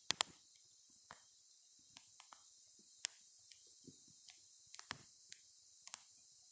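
Wood fire crackling: sharp, irregular pops and snaps from burning wood, the two loudest just after the start, over a faint steady hiss.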